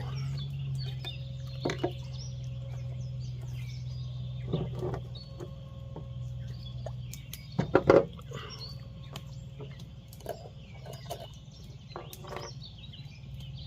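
Scattered clicks and knocks of hands handling a small container of apple pie moonshine to open it, the loudest cluster about eight seconds in. Birds chirp faintly behind, over a steady low hum.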